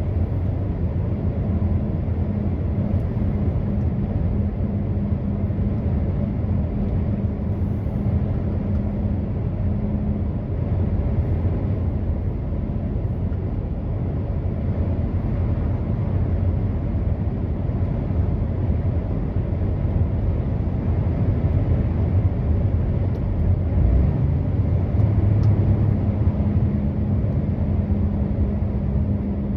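Truck running steadily on the road: a low, even engine drone with road rumble.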